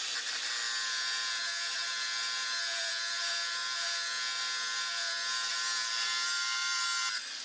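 A small handheld power tool's electric motor, already spun up, running steadily with a high whir; about seven seconds in it is switched off and winds down.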